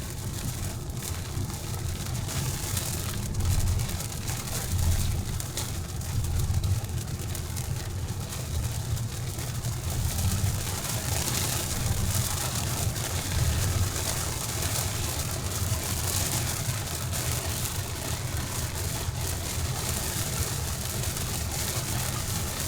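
A steady hiss of rain over the low, uneven rumble of a vehicle on the road.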